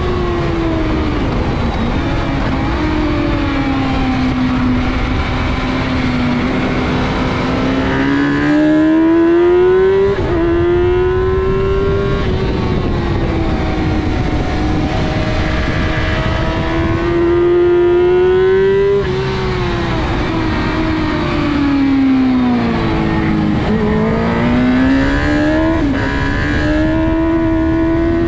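Sport motorcycle engine heard from onboard at track speed, over rushing wind. The engine note climbs under throttle and drops sharply at a gear change about ten seconds in. It falls away under braking a little past the twenty-second mark, then climbs again.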